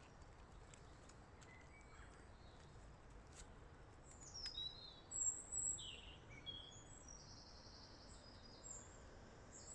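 Faint birdsong: short high chirps and calls, busiest around the middle, over low steady outdoor background noise.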